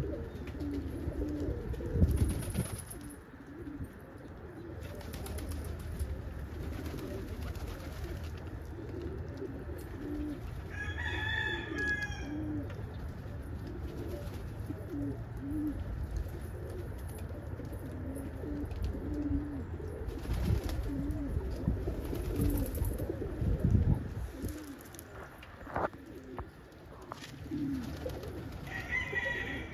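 Domestic pigeons cooing: many short, low coos repeat and overlap. A brief higher-pitched call comes a little over a third of the way through.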